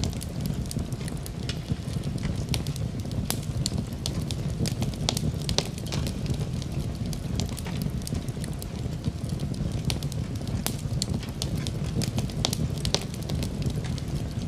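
Fireplace fire crackling: a steady low rumble of burning with frequent sharp, irregular pops and snaps.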